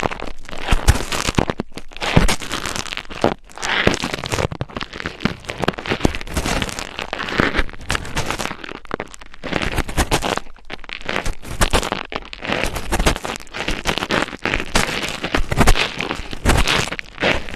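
Dense, irregular scratching and crackling close to the microphone, typical of ASMR scratching or rubbing on the mic, with brief pauses now and then.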